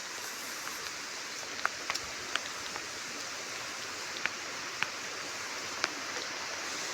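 Steady hiss of rain falling on a garden with runoff water flowing, and now and then a sharp tick of a single large drop striking close by, about six times.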